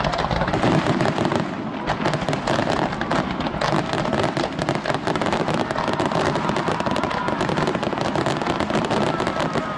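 Fireworks going off in a rapid, continuous barrage of bangs and crackles, with a sharp crack about two seconds in.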